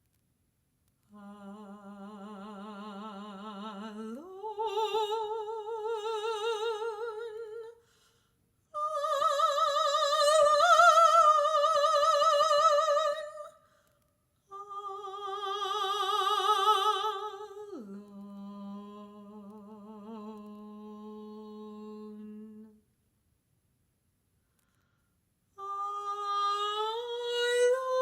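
Unaccompanied solo classical voice singing long held notes with a wide vibrato, in phrases broken by short pauses. It glides up an octave about four seconds in, later slides back down, and starts a rising, wavering phrase near the end.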